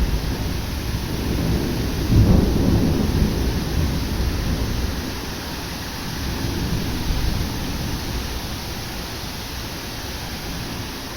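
Thunder rumbling over steady rain in a sudden summer thunderstorm: a loud low rumble swells about two seconds in, then rolls on and slowly fades while the rain keeps hissing.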